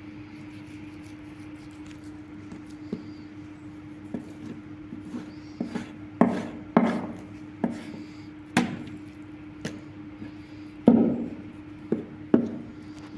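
Mutton being chopped on a wooden board: irregular knocks, a few faint ones at first, then louder and closer together from about six seconds in, over a steady low hum.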